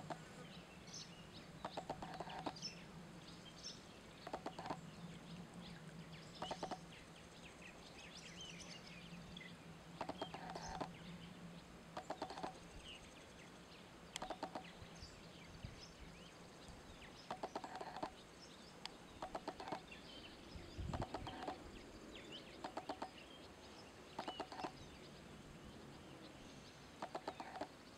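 A bird calling in short, rapid clucking rattles, one burst every couple of seconds, over a faint low hum that fades out about halfway through.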